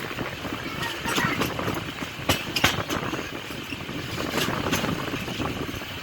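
Passenger train running along the track: a steady rumble and hiss under irregular sharp clacks and knocks from the wheels and carriage. The loudest clacks come a little past two seconds in.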